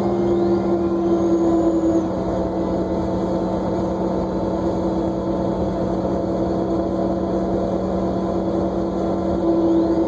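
New Flyer D40LFR diesel transit bus under way, heard from on board: a steady engine and drivetrain drone with a held whine over road noise.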